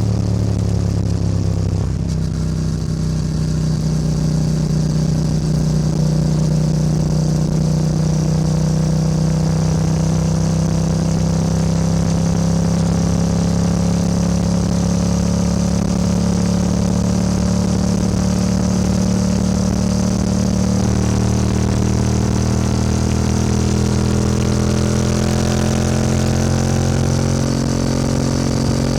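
Yamaha R7's 689 cc parallel-twin engine running under way, its note holding fairly steady, then climbing gradually over the last several seconds as it gains revs.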